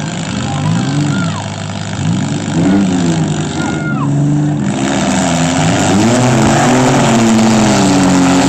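Engines of demolition derby vehicles revving up and down over and over, the pitch swinging as the drivers work the throttles. A few short high squeals that fall in pitch come through in the first half.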